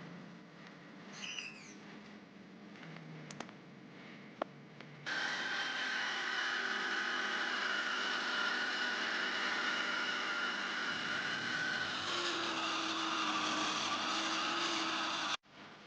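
Electric grinder grinding a steel knife blank cut from leaf spring: a loud, steady grinding hiss with a whine, starting suddenly about five seconds in and cutting off abruptly near the end. Before it there are a few small metal clicks and taps.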